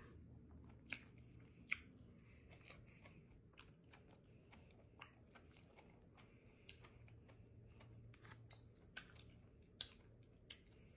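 Faint close-miked chewing of a mouthful of buffalo fried catfish, with scattered wet mouth clicks; the sharpest come a little under 2 seconds in and again near the end.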